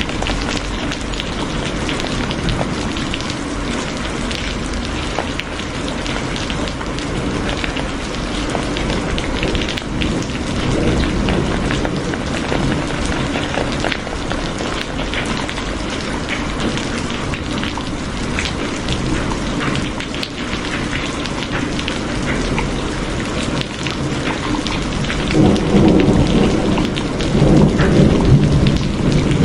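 Steady heavy rain, a dense even hiss of drops on surfaces. A low rumble of thunder swells near the end.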